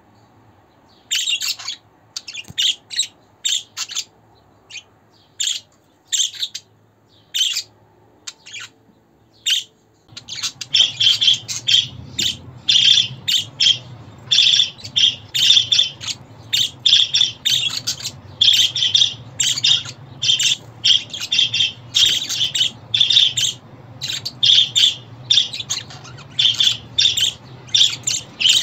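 Budgerigars chirping: short, separate chirps for about the first ten seconds, then a dense, continuous run of rapid chirps over a low steady hum.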